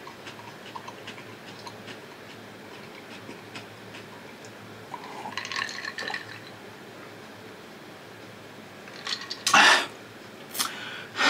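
Close-up eating sounds: soft, wet chewing and small mouth clicks. A louder noisy patch comes about five seconds in, and there are two short, loud noisy sounds near the end.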